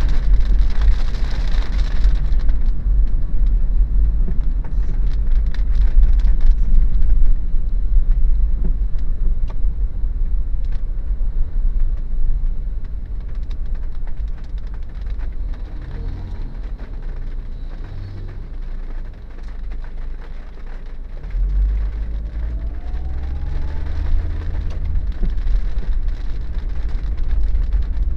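Inside a 2013 Daihatsu Terios driving in the rain: steady low road and engine rumble with faint patter and hiss of rain. A louder hiss in the first two seconds stops, and the rumble dips in the middle, then comes back stronger about 21 seconds in.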